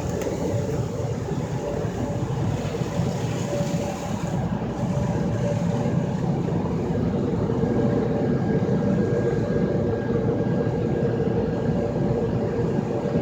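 Ryko SoftGloss XS automatic car wash running its color soap pass: a steady machine rumble with a constant pump whine, and a hiss of spray that fades about four seconds in.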